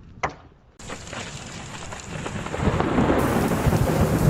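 A sharp knock, then from about a second in a steady rushing noise with a deep rumble that grows louder partway through, typical of blizzard wind buffeting the microphone.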